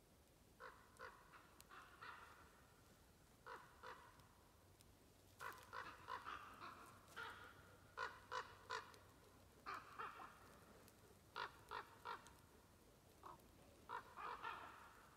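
A bird calling: short, harsh calls repeated in small irregular groups.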